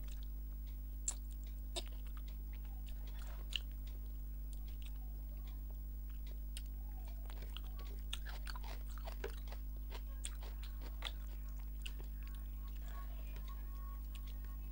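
Close-up eating sounds: a person chewing mouthfuls of rice and fish head curry, with many short wet mouth clicks and smacks, over a steady low hum.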